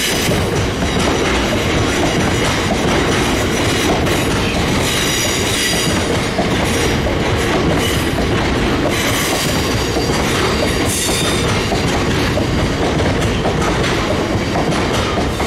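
Freight train of hopper wagons passing at speed, a steady loud rumble of wagon wheels on the track. High wheel squeals come in twice, about a third of the way through and again near the middle.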